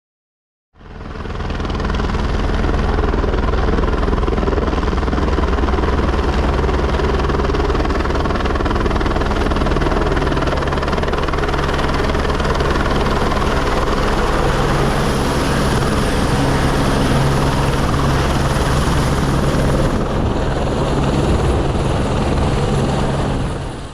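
Helicopter running steadily: a loud, constant rotor and engine noise with a strong low hum, starting abruptly about a second in and cutting off at the end.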